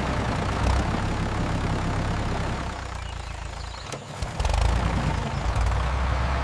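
An engine idling with a steady low hum. It drops away about three seconds in, nearly cuts out just before four seconds, then picks up again louder.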